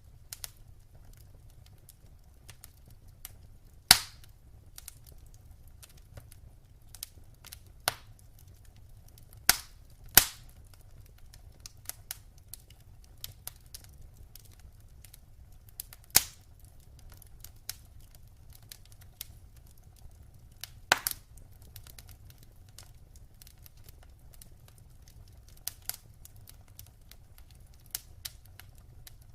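Wood fire crackling in a fireplace: a low steady rumble of flame with irregular sharp pops and snaps, a few loud ones, about five in all, standing out over the smaller ticks.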